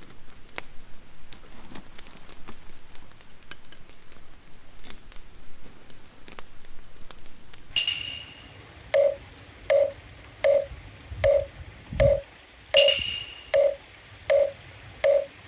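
Wood campfire crackling with sharp pops for about eight seconds. Then a short electronic jingle of evenly spaced beeping notes, just over one a second, takes over.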